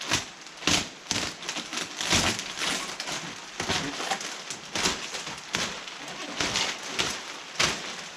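Kayak packaging being torn and pulled open: a series of short, irregular ripping and crinkling noises, about a dozen over eight seconds.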